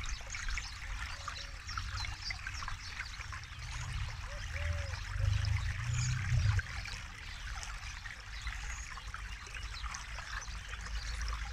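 Forest river flowing and trickling over stones in a steady splashing hiss, with a low rumble that swells about five to six and a half seconds in.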